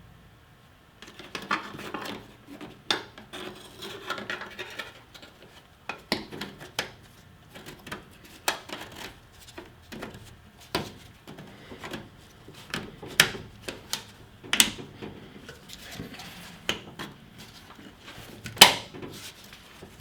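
Irregular clicks, knocks and rattles of hard parts being handled and fitted while a replacement fuel pump module goes into a car's fuel tank. The loudest knock comes near the end.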